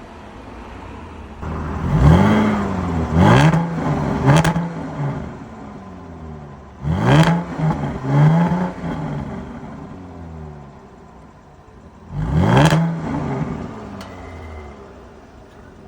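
Jaguar F-Type's supercharged 3.0-litre V6 exhaust, free-revved in short blips: three quick revs, then two, then one more, each rising in pitch and dropping back to idle between them.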